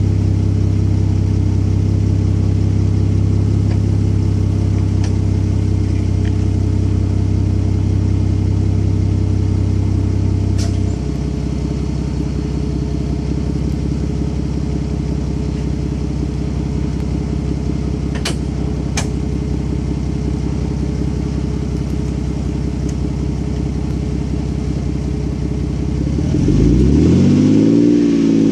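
Lexus GS300's inline-six idling through a Tanabe Hyper Medallion exhaust. About a third of the way in, the idle note changes and drops a little in level as the setup is switched from TTC mode to sequential mode. Near the end the engine is free-revved, rising and falling.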